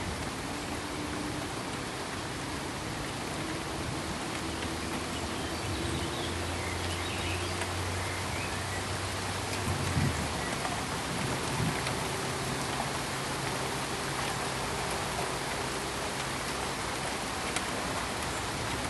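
Steady pink noise, an even rain-like hiss. A faint low hum runs underneath through the middle, with a soft thump about ten seconds in.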